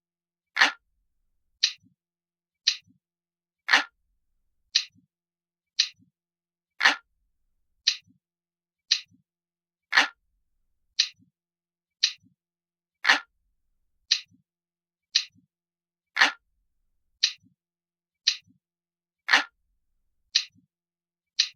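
Clock ticking sound effect, looped: sharp ticks about once a second, every third tick louder and fuller than the two between.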